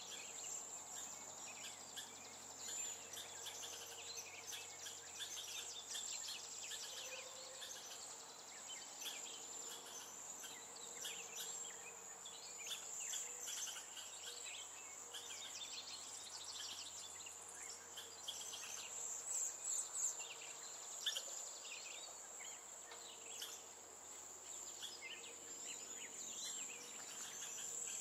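A steady high-pitched insect trill, with many short bird chirps and calls scattered over it.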